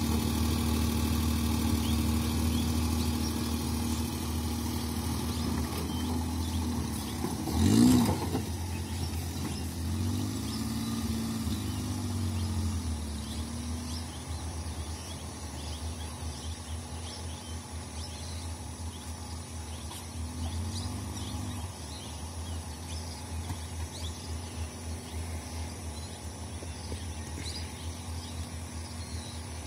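Small hatchback car engine running as the car pulls away slowly and grows fainter with distance. There is a short rise and fall in revs about eight seconds in, the loudest moment, and gentler swells in revs later.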